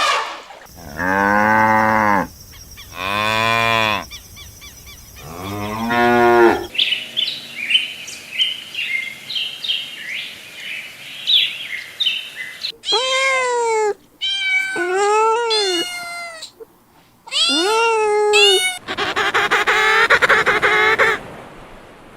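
A run of separate farm animal calls. First come three deep, drawn-out moos from cattle. Then a stretch of many short, high chirps follows, and after that several higher, arched calls that fall away at the end.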